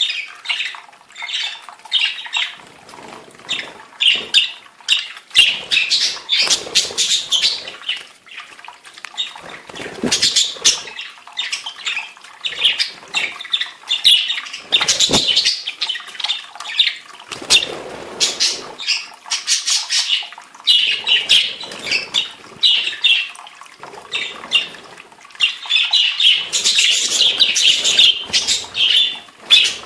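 Several budgerigars chattering and chirping without pause, with a few lower rustling bursts among the calls.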